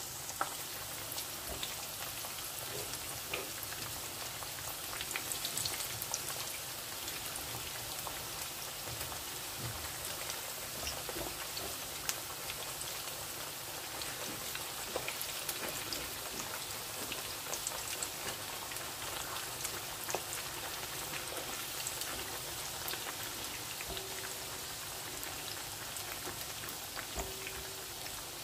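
Flour-and-cornstarch-coated raw turkey pieces deep-frying in very hot oil: a steady crackling hiss with many small pops throughout.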